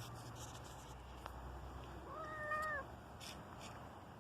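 Domestic cat giving a single meow about two seconds in: it rises, holds, then drops off. It is a sound of displeasure at seeing another cat.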